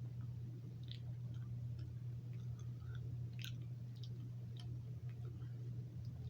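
Soft, irregular mouth clicks and smacks of someone eating cotton candy, over a steady low hum.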